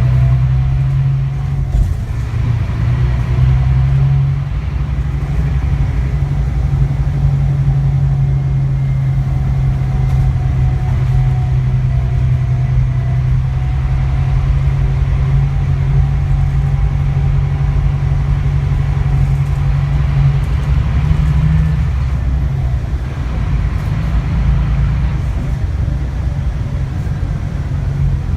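Scania K360IB bus engine running under way, a steady drone that holds one pitch and then drops away about 21 seconds in, over a constant low road rumble.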